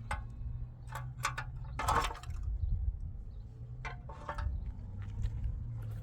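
A few irregular knocks and clicks over a steady low hum.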